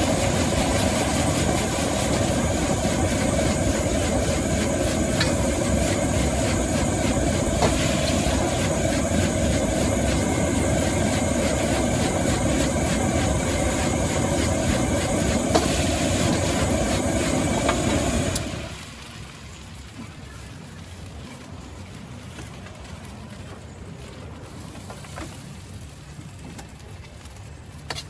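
Gas wok burner running at full flame, a loud steady rush that cuts off suddenly about 18 seconds in. After that comes a much quieter background with a few light clinks.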